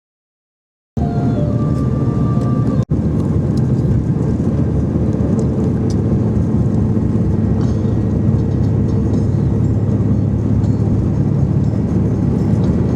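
Steady low rumble of a moving vehicle heard from inside it. It starts abruptly about a second in and drops out for an instant soon after.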